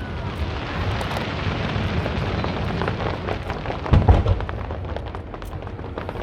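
Aerial fireworks going off: a dense crackle of many small bursts, with a louder boom about four seconds in.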